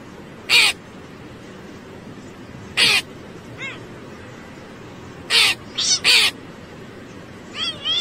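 Hooded crow cawing: about five short caws, the last three close together, with a fainter call between them. Near the end a cat starts meowing back.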